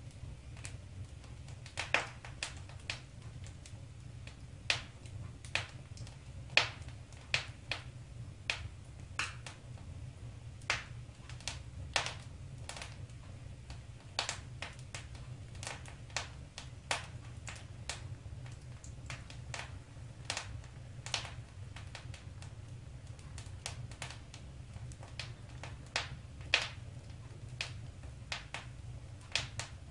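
Wood fire crackling in a fireplace: irregular sharp pops and snaps, one to three a second, over a steady low rumble.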